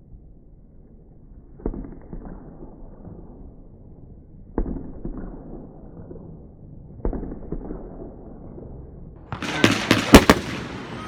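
Fireworks going off: three dull booms a few seconds apart, each followed by a low rumble. Near the end comes a dense run of crackling with several sharp, loud bangs.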